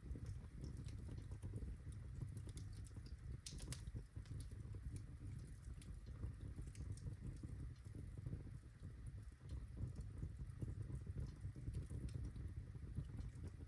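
Birchwood fire crackling in a fireplace: scattered sharp pops and snaps over a steady low rumble of burning, with a brief cluster of louder pops about three and a half seconds in.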